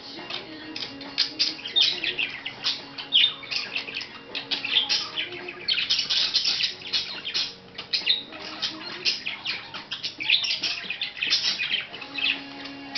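Budgie chattering and warbling: a fast, unbroken stream of short chirps and scratchy notes, the song of a happy, excited budgie.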